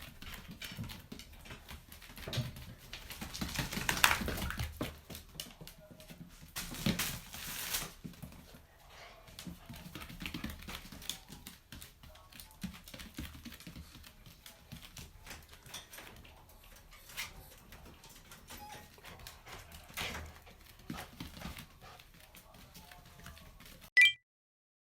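Dogs moving about a small room: a run of small clicks and taps, busiest a few seconds in, with light animal sounds in between.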